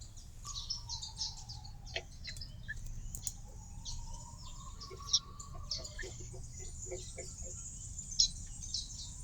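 Small songbirds chirping, many short high calls in quick succession over a steady low rumble. A faint tone slides down and back up behind them.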